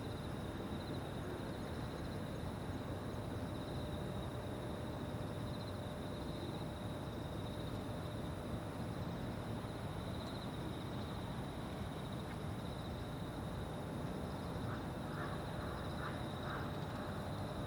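Evening insects chirring steadily, one high trill and a still higher one, over a low wash of distant background noise. Near the end a bird calls about four times in short notes.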